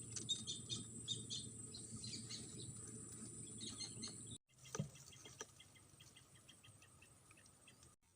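Birds calling in quick runs of short, high chirps, about four or five a second in the second half, with a brief low thump about five seconds in.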